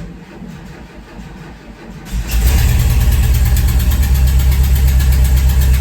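VW Vanagon engine cranking for about two seconds, then catching and settling into a loud, steady run. It starts now that the fuel pump's hot and ground wires, which had been reversed, are connected the right way round.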